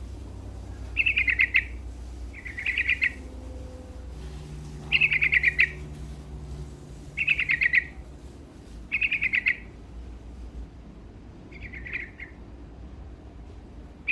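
Yellow-vented bulbul (trucukan) singing: six short phrases of rapid notes, roughly two seconds apart, over a faint low hum.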